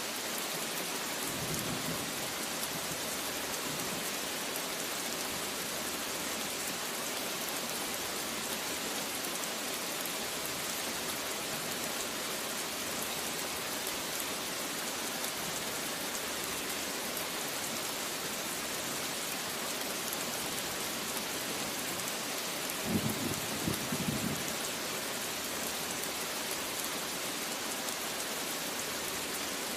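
Steady rain falling, an even hiss throughout, with a short low rumble of thunder about three-quarters of the way through.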